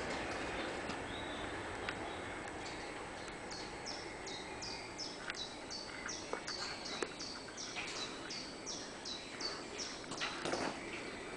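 A bird calling over steady outdoor background noise: a quick run of short, high, falling notes, about three a second, starting about three seconds in and stopping near the end, with a few faint clicks.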